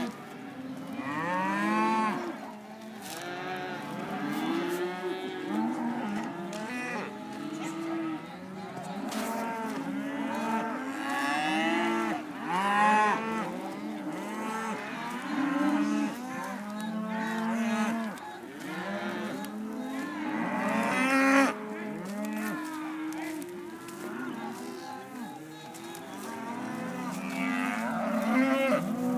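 A herd of cattle mooing, many calls overlapping one another without a break.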